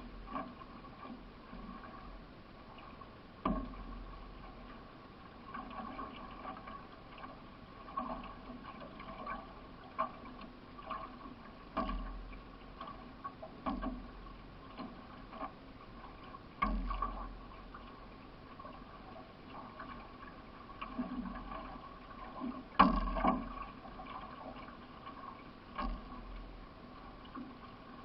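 Solo racing canoe being paddled, with sharp knocks about every two seconds, the loudest about twenty-three seconds in, over water noise along the hull and a faint steady hum.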